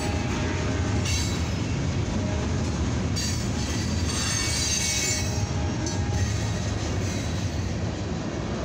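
Freight cars of a mixed freight train rolling steadily past over the rails, a continuous low rumble, with a thin high wheel squeal for a couple of seconds around the middle.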